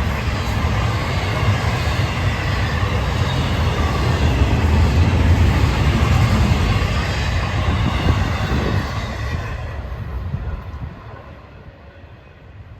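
Freight train rolling past on the rails, a loud, dense rumble with wheel-on-rail noise. It fades quickly about ten seconds in as the train passes and moves away.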